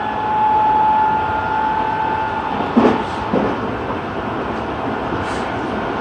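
Running sound inside an N3000-series subway car: a steady rumble with a steady whine that stops about two and a half seconds in. Then two clacks of the wheels over rail joints.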